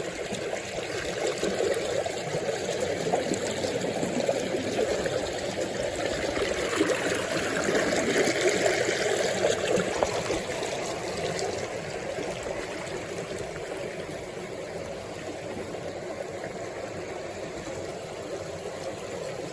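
River water flowing in a steady rush, a little softer after about ten seconds.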